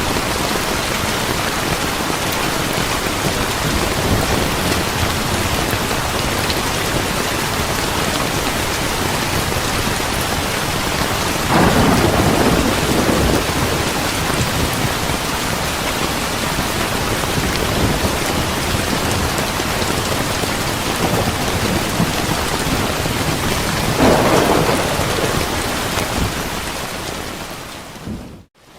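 Steady heavy rain with thunder rumbling twice, about 11 and 24 seconds in; near the end the whole sound fades down briefly before returning.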